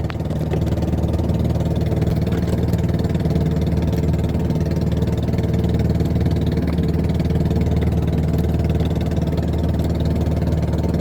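A small engine running steadily at idle, an even low hum that holds the same pitch and level throughout.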